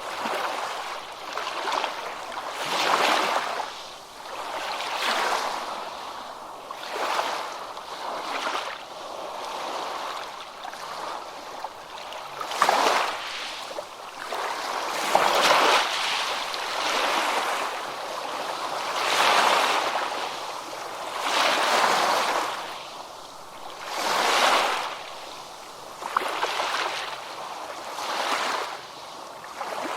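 Ocean waves breaking and washing on a beach, a wash of surf that swells and ebbs every two to three seconds.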